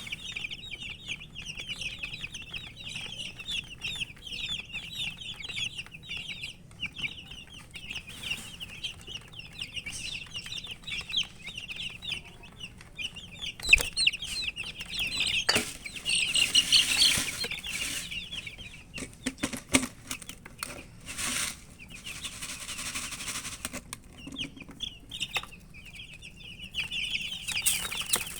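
A crowd of baby chicks peeping, many high chirps overlapping. The peeping thins out midway, where there are a few sharp knocks and bursts of rustling, and it builds again near the end.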